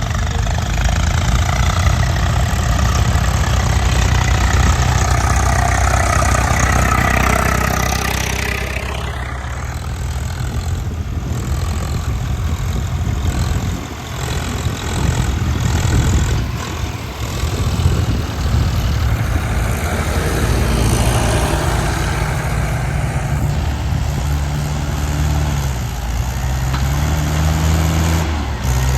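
Heavy diesel engine of a backhoe loader or tractor running steadily, its speed rising and falling in steps later on.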